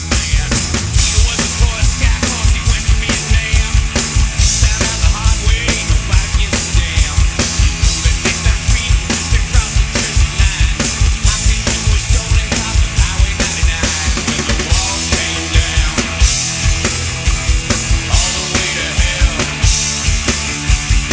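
Punk-style rock song with a live drum kit played along to it: driving drums and cymbals over distorted guitars.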